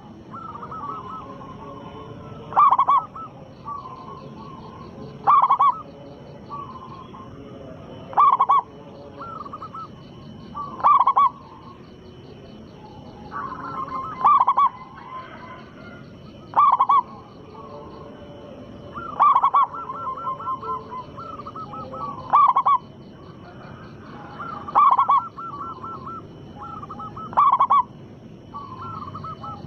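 Zebra dove (perkutut) cooing its song over and over. A loud call comes about every two and a half to three seconds, ten times, with softer rolling coos between.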